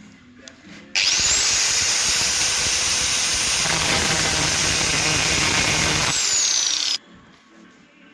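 A handheld power tool runs for about six seconds, starting about a second in: a loud hiss under a high steady whine. Near the end the whine falls away as the tool winds down.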